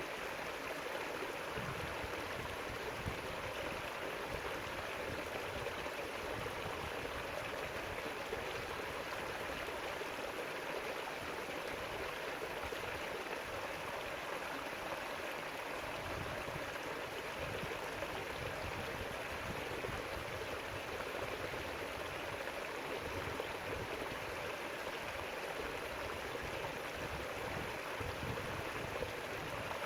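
River water rushing and babbling over stones in a steady, unbroken stream.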